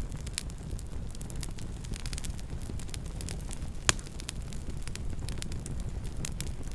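Campfire burning: a steady low rumble of the flames with frequent small crackles and snaps, and one louder pop about four seconds in.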